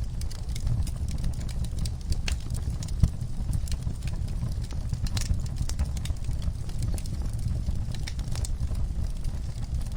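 Wood fire crackling in a fireplace: a steady low rumble of the flames under frequent, irregular sharp crackles and pops, with one louder pop about three seconds in.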